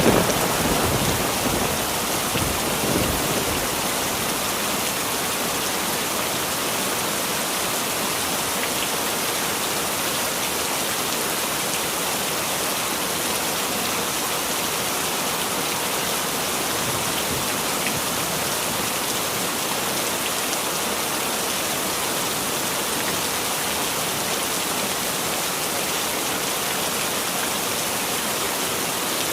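Heavy rain falling steadily, an even dense hiss, with the tail of a thunder rumble dying away in the first few seconds.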